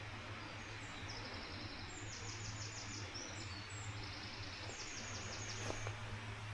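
A small songbird singing several high, rapid trills in short phrases, over a steady hiss and low hum, with one short click near the end.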